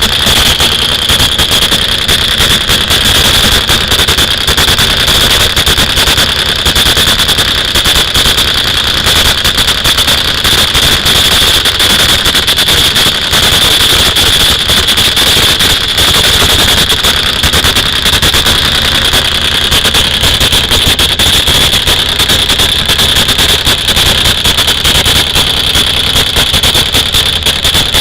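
Loud, steady dirt drag motorcycle engine noise with a constant high whine on top.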